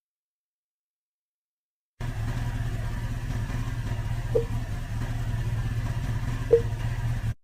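A vehicle engine running steadily with a low hum. It starts abruptly about two seconds in and cuts off just before the end, with two short, higher blips about two seconds apart.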